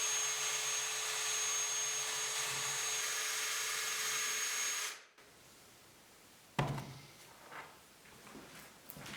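A power tool runs steadily with a constant whine, then cuts off abruptly about five seconds in. A single sharp knock follows about a second and a half later, then a few small handling clicks.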